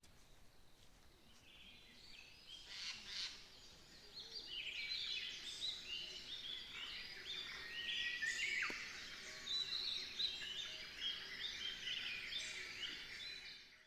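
Small birds chirping and twittering, many short calls overlapping, swelling in over the first few seconds and cutting off suddenly at the end.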